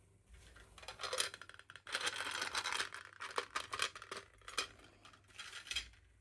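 Crinkling and clicking from small plastic toy packaging being handled and opened, in dense crackly bursts with sharp clicks, loudest about two seconds in.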